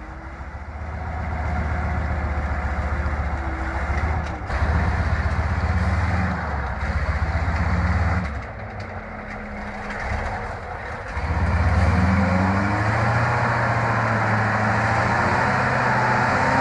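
Heavy loaded logging truck's engine labouring in deep mud, revving up and easing off. It drops back for a few seconds past the middle, then revs up again about eleven seconds in and stays loud.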